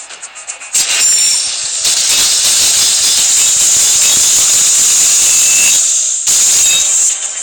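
Loud, steady hissing rush of a Beyblade spinning-top battle, starting about a second in and cutting off suddenly near the end.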